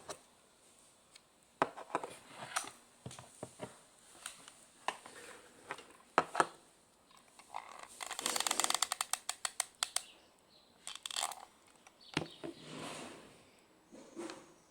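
Handling noises from small objects being worked by hand: scattered clicks and knocks, brief scrapes, and a rapid rattling stretch of about two seconds near the middle.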